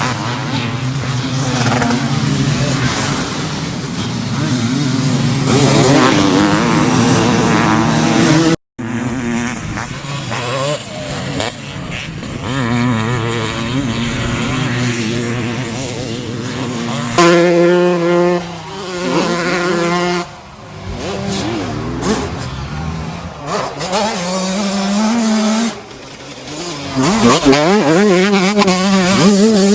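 Two-stroke motocross bike engines revving up and down as they are ridden hard, in several clips cut together; the sound breaks off and changes abruptly about 9 and 17 seconds in.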